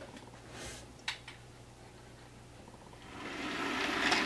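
A faint click and light rustles, then, about three seconds in, an OO gauge Bachmann Class 47 model locomotive's electric motor starts whirring with its wheels running on the track, growing louder.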